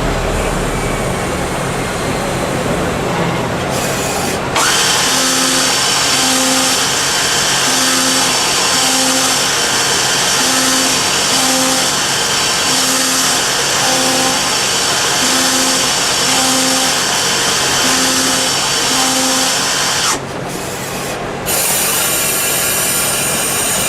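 Metal-cutting machine tool, a CNC lathe, running under cut: a loud, steady hiss with high whining tones. It starts and stops abruptly, as at edits, about four seconds in and again near the end.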